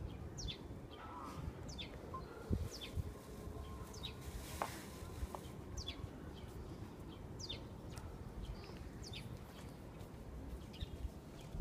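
Small birds chirping: short, quickly falling chirps, about one a second, over a faint low rumble.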